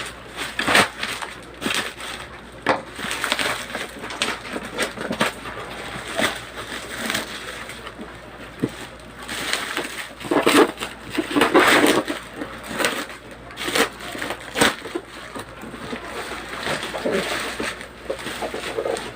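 Packaging being handled and opened during an unboxing: irregular crinkling, rustling and crackling of box and wrapping, with a louder stretch of rustling about halfway through.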